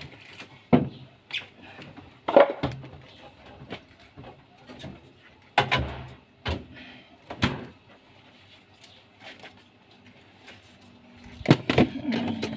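Irregular knocks, clicks and scraping of refrigerator parts being handled and fitted back into place, a dozen or so sharp knocks at uneven intervals.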